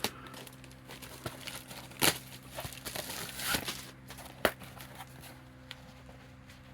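Packaging of a boxed item being handled and opened by hand: scattered crinkles and clicks, loudest about two seconds in and again about four and a half seconds in, over a steady low hum.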